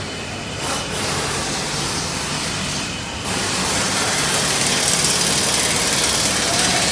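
Sonalika tractor's diesel engine running, with a loud hiss over it that grows louder about a second in and again about three seconds in.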